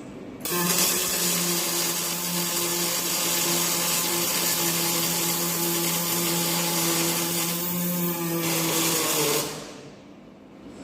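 Welding arc on a steel chassis frame, burning in one continuous run of about nine seconds with a dense crackling hiss and a steady low hum. It starts abruptly and cuts off abruptly.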